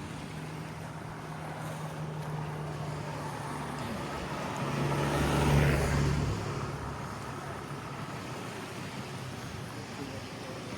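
A motor vehicle passing close by: its engine hum grows louder to a peak about halfway through, with a rush of road noise, then fades away, over a steady outdoor background.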